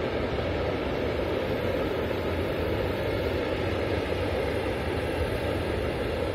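Freight train of tank wagons rolling past behind a Škoda 182 electric locomotive: a steady rumble of wheels on rails.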